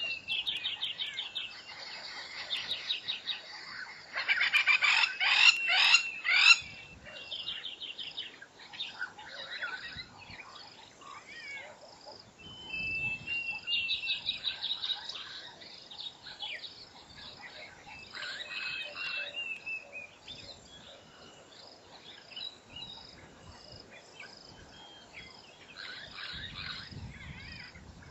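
Several wild birds calling and trilling, with a loud run of rapid repeated notes about five seconds in and scattered chirps after.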